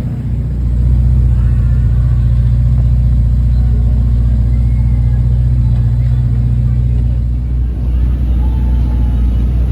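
A car engine running steadily with a deep, even rumble that eases slightly about eight seconds in.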